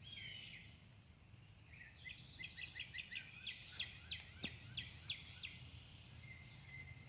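A songbird giving a faint series of about a dozen quick, high chirps, a few a second, starting about two seconds in, over a steady low hum.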